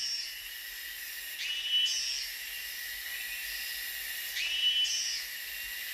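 High-pitched insect chorus of a tropical forest: a steady shrill hiss that swells louder twice.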